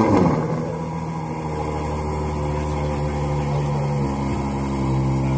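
A Ferrari engine starts up. There is a sudden loud flare that rises and falls in pitch, and then it settles into a steady idle.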